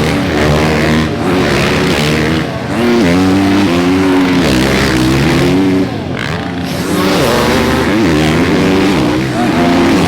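Motocross bike engines revving hard, the pitch climbing and dropping again and again with throttle and gear changes.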